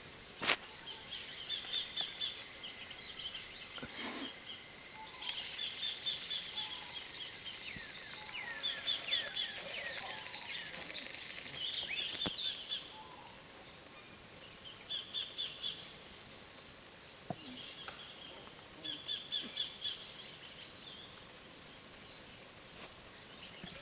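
Wild birds singing: repeated short trills of rapid high chirps, a few seconds apart, with a few sliding whistled notes. A sharp click comes about half a second in and another about four seconds in.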